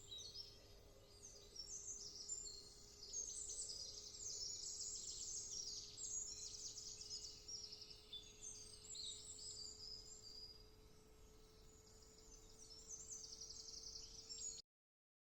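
Woodland morning bird chorus: several small birds singing at once in quick high chirps and trills, over a faint steady low hum. It cuts off abruptly near the end.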